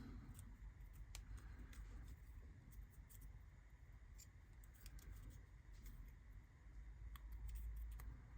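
Faint, scattered small clicks and scrapes of hands working small laser-cut kit parts on a bench, over a low steady hum.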